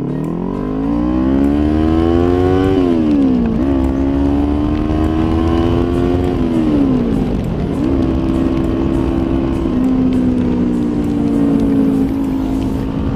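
Kawasaki Ninja 400's parallel-twin engine under way. It revs up for about three seconds, drops at a gear change and climbs again. About seven seconds in it falls away, then holds a steady cruising note.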